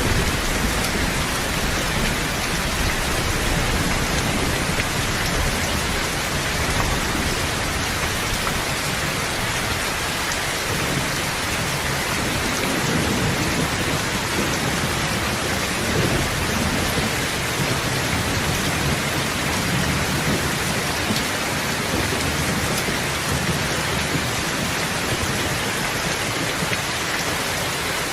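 Steady heavy rain falling, a dense even hiss, with a low thunder rumble swelling through the middle.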